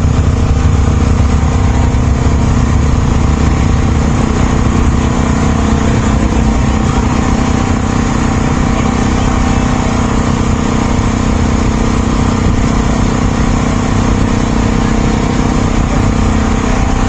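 Steady engine drone and road noise of a vehicle cruising at an even speed, with no changes in pitch or level.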